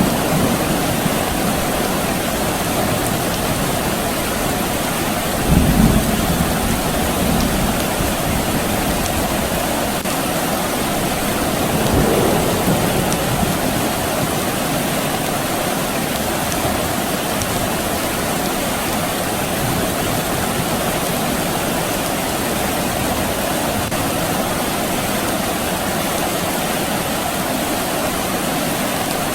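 Steady rain falling, with a low rumble of distant thunder about six seconds in and a weaker rumble around twelve seconds.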